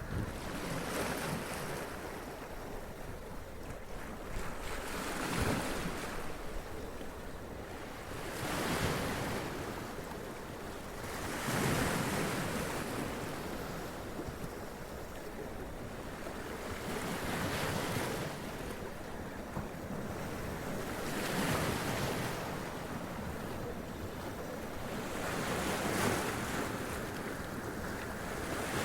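Sea waves washing up against rocks, surging and splashing about every three seconds, with a steady rush of surf between.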